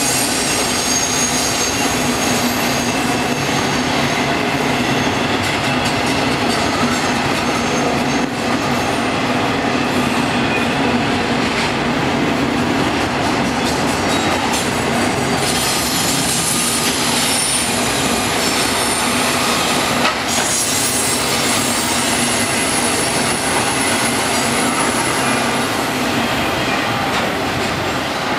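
Freight cars rolling past on steel rails: a steady, loud rumble of wheels, with thin high-pitched wheel squeal drawn out over it and some clickety-clack of wheels over rail joints.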